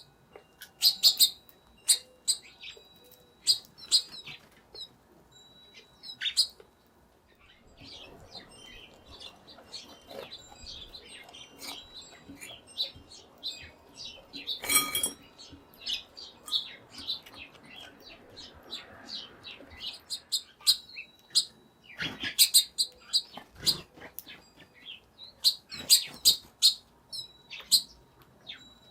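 Small birds chirping and tweeting in many short, high, irregular bursts, with a sharp click about 15 seconds in.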